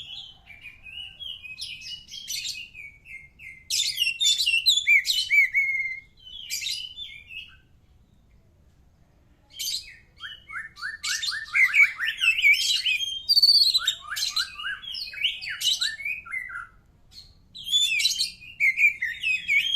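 Oriental magpie-robin (kacer) singing: varied whistled phrases mixed with quick runs of repeated chattering notes. The song breaks off for about two seconds near the middle, then resumes.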